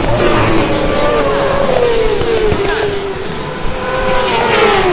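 Racing motorcycle engines at high revs, the engine note falling slowly in pitch as a bike passes or backs off, then another falling near the end.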